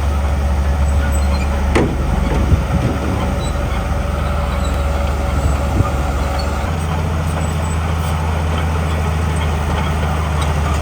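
Diesel engine of heavy earthmoving machinery running steadily under load, with a sharp knock about two seconds in and a change in the engine note about two-thirds of the way through.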